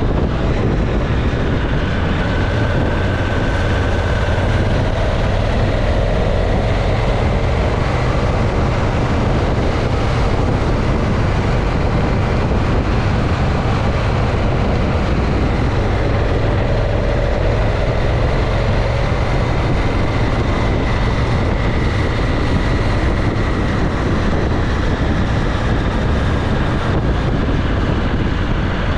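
Motorcycle ridden at road speed: a steady engine drone with faint tones that drift slowly in pitch, under a heavy low rush of wind on the microphone.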